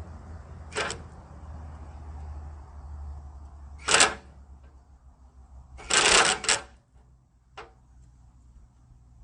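Hand tools clanking against metal bolts and bodywork: a sharp clink about a second in, a louder one about four seconds in, and a quick cluster of three around six seconds, over a low steady rumble that cuts off about seven seconds in.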